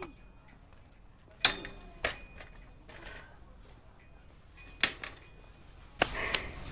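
About five sharp clicks or clinks of hard objects, irregularly spaced: two about a second and a half and two seconds in, one near five seconds, and a quick pair near the end.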